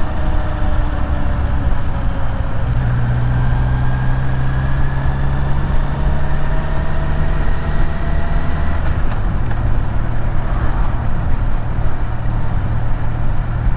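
Kawasaki Z900's inline-four engine running at cruising speed, its pitch rising slowly for several seconds and then dropping back about nine seconds in, over a steady rush of riding noise.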